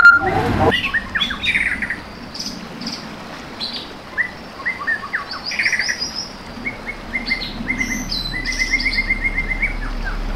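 Several wild birds chirping and trilling, with quick runs of repeated notes overlapping one another. A brief loud pulsing tone and noise cut off within the first second.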